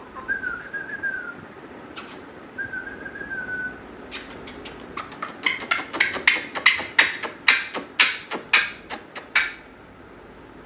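Grey parrot giving two short wavering whistles, then a fast run of sharp clicks, several a second, for about five seconds.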